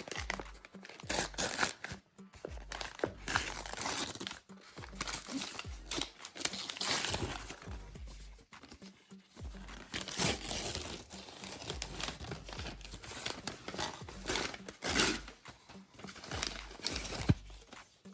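Packaging from a nail-art mystery box being handled: crinkling and tearing in irregular bursts as the items are unwrapped.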